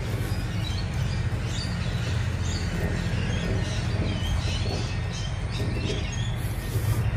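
Small birds chirping repeatedly in the background over a steady low rumble.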